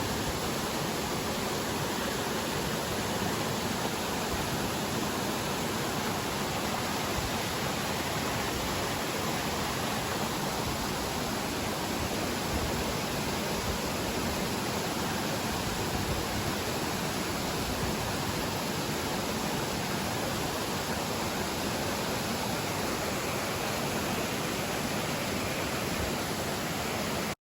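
Steady rushing of water, a stream or waterfall, even and unbroken, that cuts off suddenly near the end.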